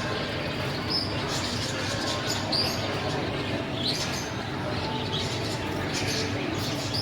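Gloster canaries giving a few short, high chirps, a second or more apart, over a steady background noise.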